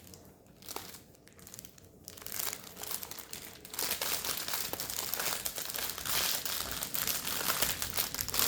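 Plastic packaging of a diamond painting kit crinkling as it is handled. A few faint clicks at first; the crinkling starts about two seconds in and grows louder and denser from about four seconds in.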